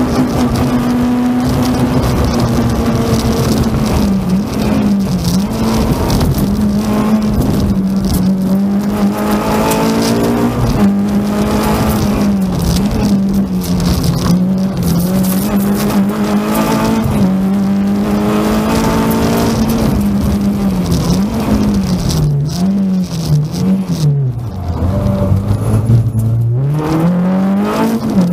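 Renault Clio 16V rally car's four-cylinder engine heard from inside the cockpit, run hard at high revs with brief dips and rises as the driver shifts and lifts. Near the end the revs drop low, then climb again.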